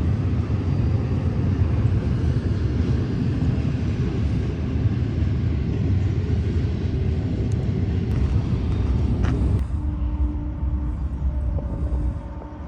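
Intermodal freight train cars rolling past on the grade, a steady low rumble and rattle of steel wheels on rail. About three-quarters of the way through it cuts off abruptly, leaving a quieter steady hum.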